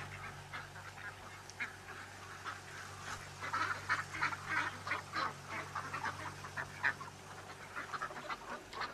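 Birds calling: many short, quick calls overlapping, busiest from about three seconds in.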